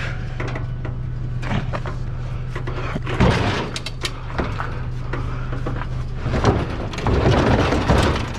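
Scraping and knocking of heavy scrap being shoved into a pickup truck bed, with the loudest bursts about three seconds in and again near the end, over the steady low hum of the idling truck.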